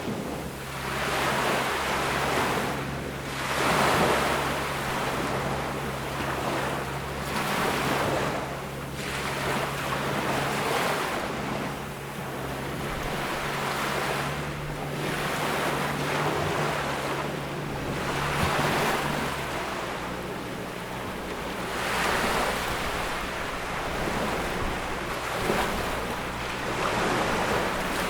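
Ocean waves breaking and washing up a beach, swelling and falling every few seconds. A faint low steady hum sits underneath and stops about two-thirds of the way through.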